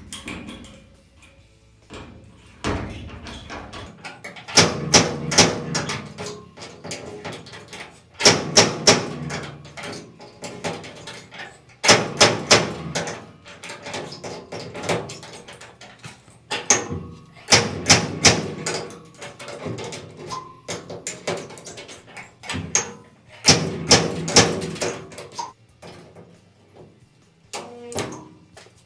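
Stud-welder dent puller working a caved-in steel truck-bed panel: groups of four or five sharp metallic knocks every few seconds as the dent is pulled out.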